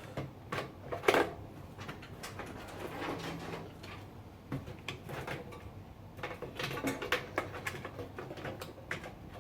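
Irregular clicks, knocks and light rattles of power supply cables and their plastic connectors being worked loose inside a PC case, the sharpest knock about a second in and a busier run of clicks in the second half.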